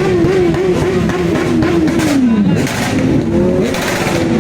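Motorcycle engines running and revving: a low engine note wavers, then drops about two seconds in, over a rough rumble, with short bursts of hiss from blips of the throttle.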